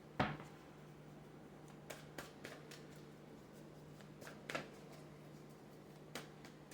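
Tarot cards being handled on a table: a sharp tap right at the start, then a few soft clicks and rustles of cards, over a steady low hum.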